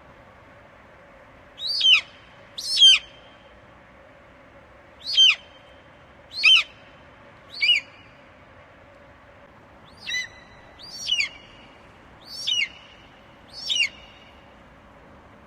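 Eagle calling: a series of about nine short, high-pitched screeching calls, each falling sharply in pitch, repeated at irregular intervals of one to two seconds.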